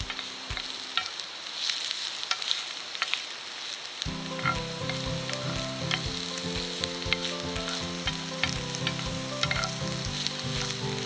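Food sizzling and popping as it fries in a pan, with a steady hiss and frequent sharp crackles, over background music that drops out for a few seconds early on and then returns.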